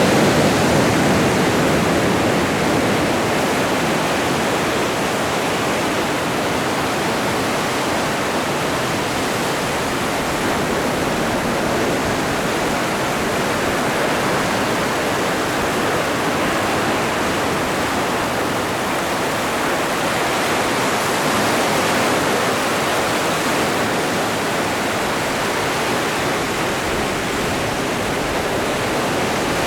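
Atlantic Ocean waves washing on the shore, a continuous rushing surf that swells near the start and again, more gently, about twenty seconds in.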